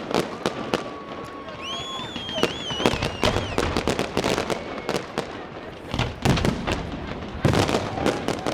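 Fireworks display going off: a rapid, irregular run of bangs and crackling pops, with whistling shells wavering in pitch about two seconds in.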